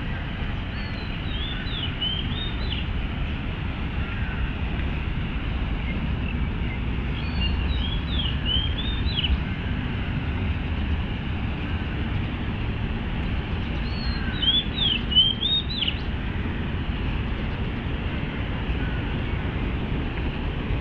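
A songbird singing a short phrase of quick sliding whistled notes three times, about six seconds apart, over a steady low rumble of city traffic.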